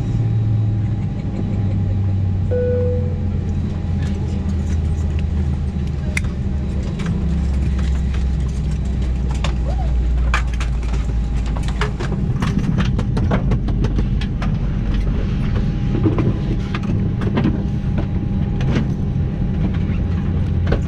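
Airbus A319 cabin with an engine still running at the stand: a steady low drone whose pitch drops in steps, over a thin steady high whine. A short single chime sounds about three seconds in, and scattered clicks and knocks come throughout.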